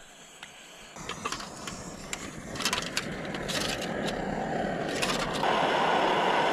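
Crunching and scraping in snow, then, from about five seconds in, a sudden steady loud rush of strong wind buffeting the microphone.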